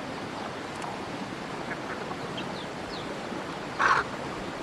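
A duck quacks once, short and loud, near the end, over a steady outdoor hiss with a few faint bird chirps.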